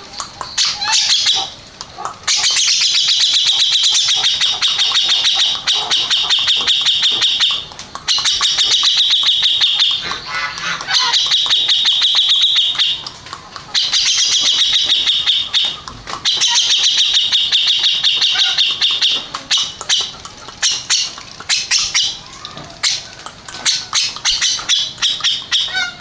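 A cucak jenggot (grey-cheeked bulbul) singing: long runs of fast, rapidly repeated high notes, each lasting a few seconds, with short breaks between.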